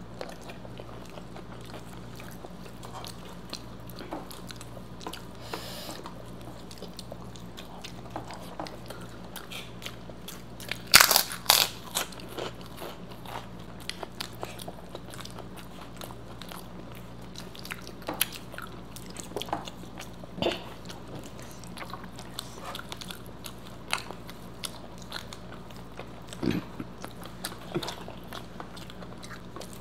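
Close-miked eating: chewing and biting into crisp fried food, with many small crunches throughout and a burst of loud crunches about a third of the way in, then a few more scattered later.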